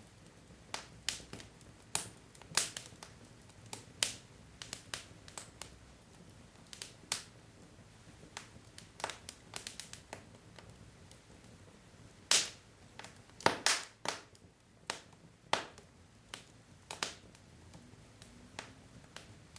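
Wood logs burning in a fireplace, crackling with irregular sharp pops, a few of them louder, over a faint low hiss of the flames.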